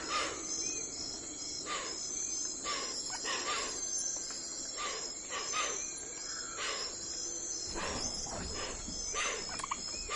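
Crickets chirping in a steady high pulsing trill, with short calls repeating about once a second over it.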